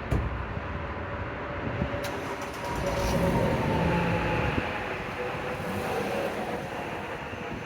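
Mercedes-Benz E320 engine on a cold start, running at a fast idle. Its sound swells about three seconds in and then slowly settles, with a sharp click at the start and another about two seconds in.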